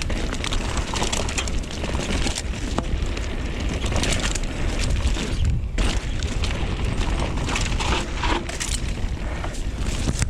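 Mountain bike riding fast down a dirt trail: wind buffeting the microphone, tyre noise, and the bike rattling with many small knocks over rough ground.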